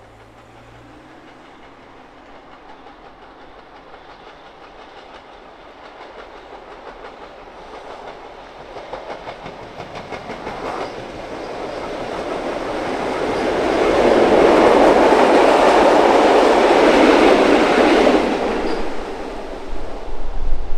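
Vintage Tait 'red rattler' electric suburban train approaching and passing close by, its wheels clicking rhythmically over the rail joints. The sound builds steadily from faint to loud, peaks about two-thirds of the way through, then drops away as the train goes past.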